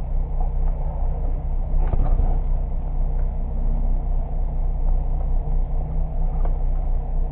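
Honda Civic's engine running steadily at low revs, heard from inside the cabin, with a brief clunk about two seconds in.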